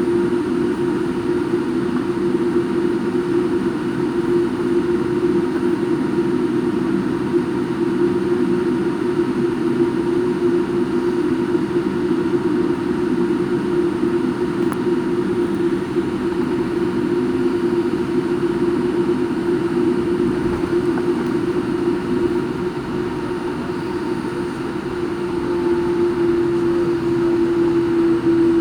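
Steady jet airliner cabin noise from inside the passenger cabin: a constant engine and airflow hum with a strong low drone. It swells slightly near the end.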